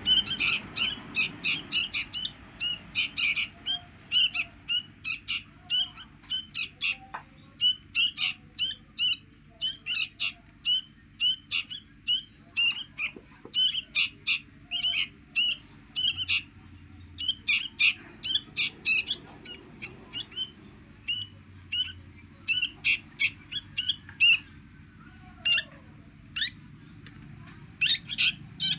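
Sooty-headed bulbul nestling giving shrill begging calls while being hand-fed: short, sharp chirps repeated rapidly in clusters with brief pauses between them.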